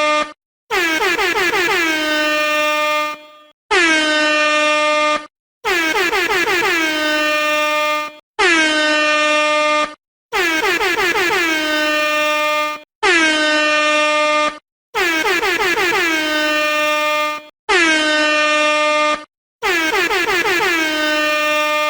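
Air horn sounded in about ten blasts with short gaps between, longer and shorter blasts alternating. Each blast opens with a quick downward slide in pitch and then holds a steady, loud tone.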